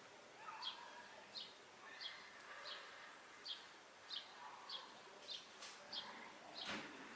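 Sparrow chirping steadily, one short high note about every two-thirds of a second, with a short sharp sound near the end.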